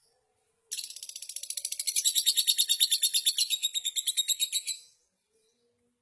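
Lovebird giving one long, rapid chattering trill of high chirps, about a dozen notes a second, building in loudness and then fading out after about four seconds.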